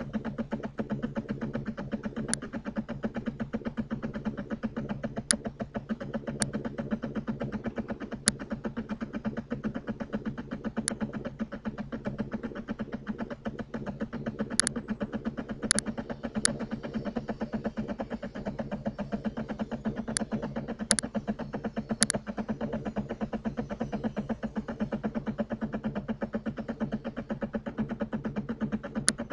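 A steady low hum with a fast, buzzing pulse to it. About a dozen sharp clicks come at irregular intervals over it.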